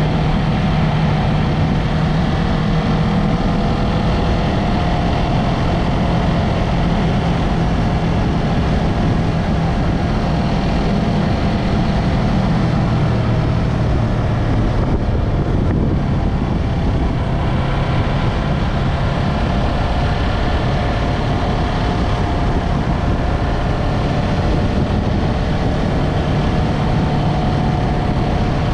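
Yamaha MT-03 motorcycle engine and exhaust running under way, heard from the bike over wind rush. The engine note holds steady, eases off briefly about halfway through, then picks up again.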